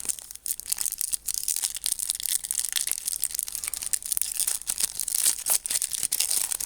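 Foil trading-card pack wrapper being torn open and crinkled by hand: a dense, continuous crackling.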